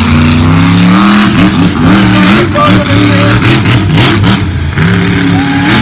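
Monster truck engine revving hard. Its pitch climbs and drops again and again as the throttle is worked, then rises once more near the end.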